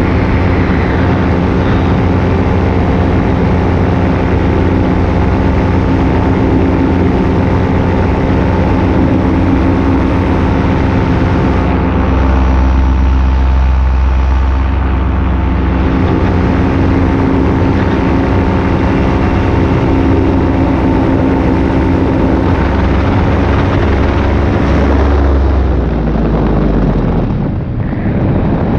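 Paramotor engine and propeller running steadily in flight, with wind noise. Near the end the engine is throttled back and its pitch falls.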